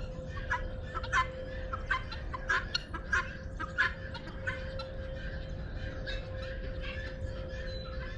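Guineafowl calling: a run of sharp, harsh calls about every half second that give way to softer, scattered calls about four seconds in.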